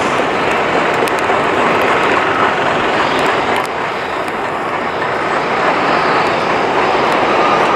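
Airbus A330-300 airliner's jet engines during landing: a loud, steady rushing noise with a thin whine running through it, dipping slightly a few seconds in.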